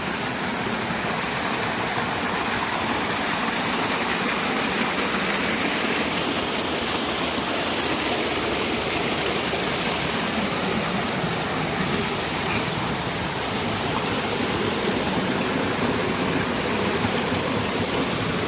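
Flowing water rushing steadily, an even noise with no breaks.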